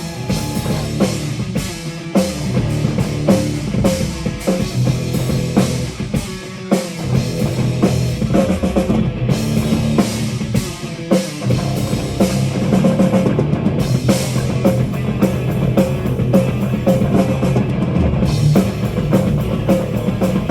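A metal band playing live, an instrumental intro before the singing starts. It is drum-led, with steady, rapid drum hits over a dense low bed of guitar and bass. The drive breaks off briefly about six seconds in and again about eleven seconds in.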